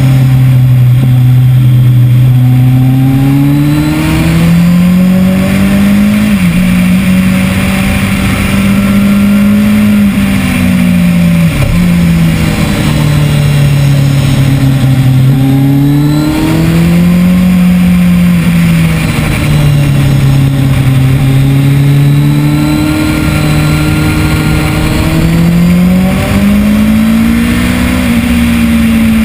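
2010 Kawasaki ZX-10R's inline-four engine ridden hard on track: the pitch climbs with quick drops at upshifts about 6 and 11 seconds in, falls away as the bike slows, then climbs again through the gears.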